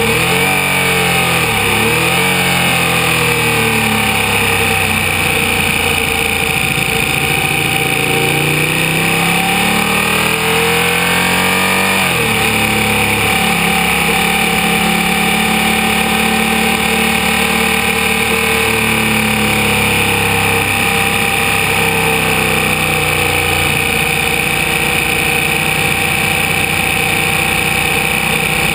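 Ducati 1199 Panigale's V-twin engine at low revs on light throttle. Its pitch dips and recovers twice in the first couple of seconds, climbs for a few seconds, drops sharply about twelve seconds in, then holds steady and low.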